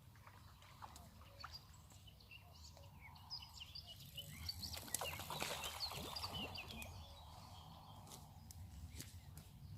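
Small birds chirping and singing over a low steady rumble, with a louder stretch of clicks and rustling about five to seven seconds in.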